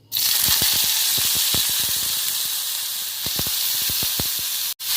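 Finely chopped onions dropped into hot oil in a kadai: a loud frying sizzle starts suddenly and keeps up, with scattered pops and crackles. It cuts out for an instant near the end.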